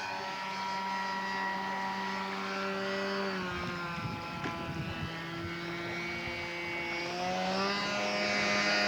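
Radio-controlled scale Maule floatplane's engine and propeller running steadily in flight; its pitch drops about three seconds in and climbs again near the end.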